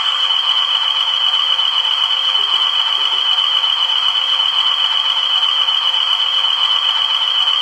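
Howes Models Class 20 DCC sound decoder playing a steady diesel locomotive sound through the small speaker of a Bachmann model: thin and tinny, with almost no bass.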